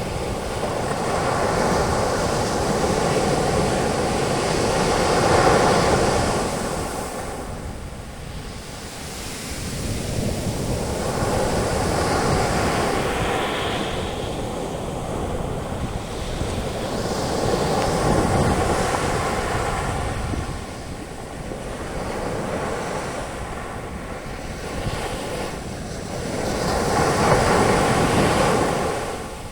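Sea waves breaking and washing up a beach, the foaming surf rising and falling in four long surges, about one every six to nine seconds.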